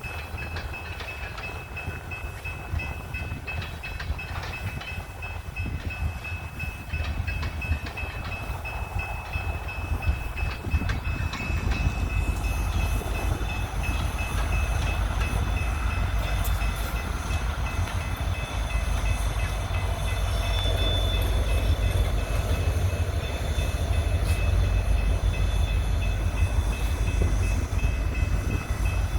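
Coal train rolling along the rails: a steady low rumble that grows louder about twelve seconds in, with a thin, high, steady whine over it.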